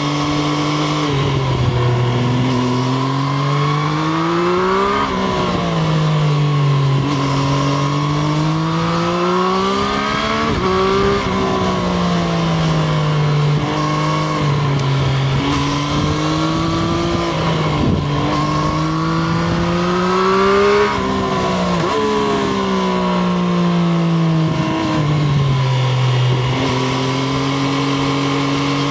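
Triumph Street Triple RS three-cylinder engine heard on board while riding. The engine note climbs and drops over and over as the rider accelerates and changes gear, over a steady rush of wind noise.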